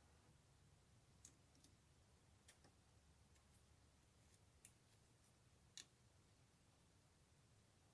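Near silence: low room hum with a few faint, scattered clicks, the clearest about six seconds in.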